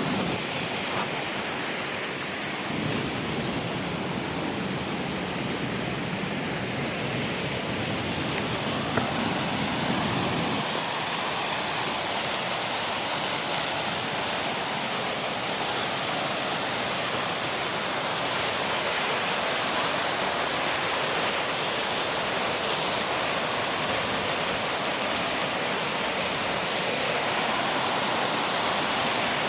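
Steady rush of falling water from a mountain waterfall, an even hiss with a deeper rumble from about three to ten seconds in.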